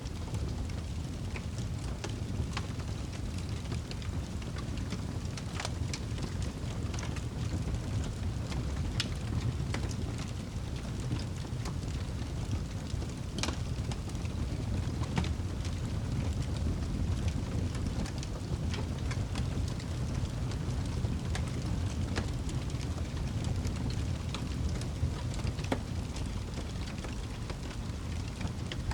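Campfire burning, the wood crackling with irregular sharp pops and snaps over a steady low rumble.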